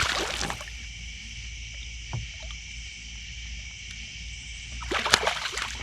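Hooked channel catfish splashing at the side of a kayak, briefly at the start and again near the end as it is brought to the net. Under it runs steady chirring of night insects and a low hum.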